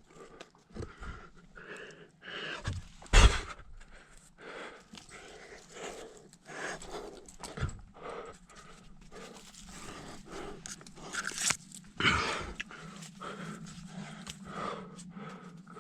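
A climber breathing heavily in quick, even breaths close to the microphone, with two loud knocks about three seconds in and near twelve seconds.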